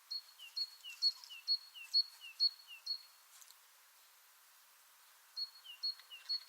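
Songbird singing a short two-note phrase, a high note then a lower down-slurred one, repeated about twice a second seven times. After a pause of about two seconds it comes again three or four times near the end, over a faint outdoor hiss.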